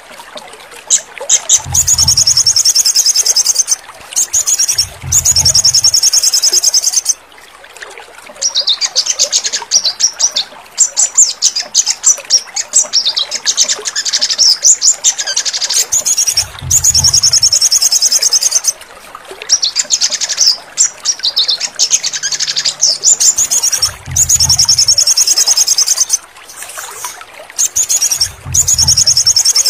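Crimson sunbird (sogon) song: rapid, high-pitched trilling phrases of one to three seconds each, repeated with short gaps. A brief low hum sounds under several of the phrases.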